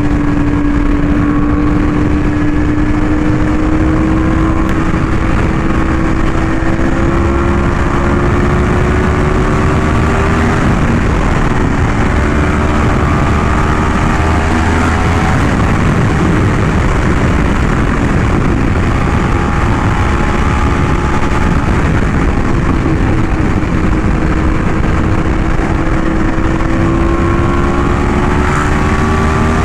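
Yamaha R1M crossplane inline-four running through an SC Project aftermarket exhaust at highway speed, with rushing wind noise. The engine pitch climbs slowly under light acceleration, drops around ten seconds in, then climbs again.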